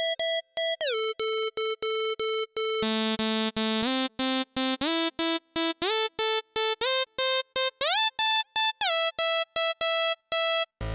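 FL Studio Mobile synthesizer preset playing a quick run of short repeated notes, the pitch sliding up or down between some of them. A lower second line joins about three seconds in, and the notes stop shortly before the end.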